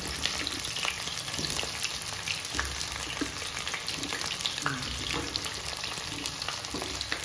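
Raw jackfruit pieces frying in hot oil in a kadhai: a steady sizzle with scattered small crackles, while more pieces are dropped into the oil by hand.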